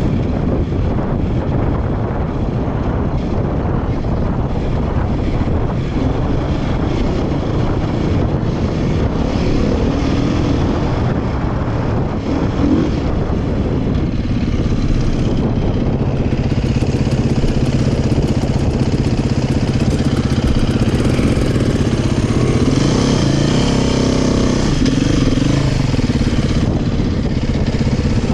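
Beta 500 dirt bike's single-cylinder four-stroke engine running hard under throttle, its pitch rising and falling as the rider rolls on and off, with a steady rush of wind noise over it.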